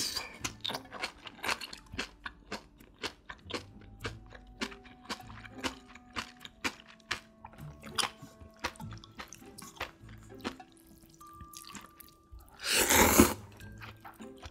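Crisp, crunchy chewing of napa cabbage kimchi, a quick run of crunches, then one loud slurp of thin wheat noodles near the end. Soft background music plays underneath.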